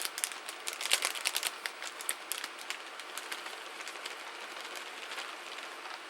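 Spoon clicking and scraping against a mixing bowl while stirring a thick, creamy cheese mixture. The clicks come quickly for the first couple of seconds, then thin out and grow fainter.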